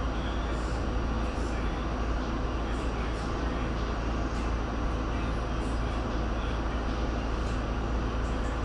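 R68 subway train running along the track: a steady, even rumble and rush of wheels on rail. Short, faint high-pitched squeaks come and go throughout.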